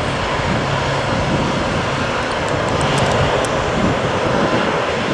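Engines of F-15 fighter jets running steadily on the runway at taxi power, an even jet engine noise with a low hum beneath it.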